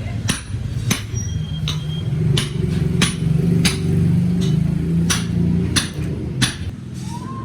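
Hammer blows on metal, about ten evenly spaced ringing strikes, as cylinder sleeves are driven into a tractor 260 engine block. A steady low hum runs underneath.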